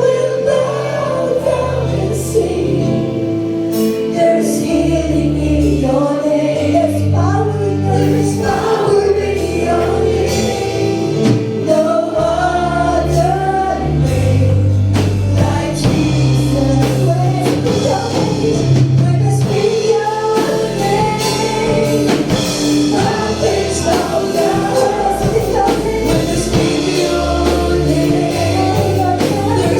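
Live worship band and singers performing a gospel praise song, with voices singing over bass guitar and drums.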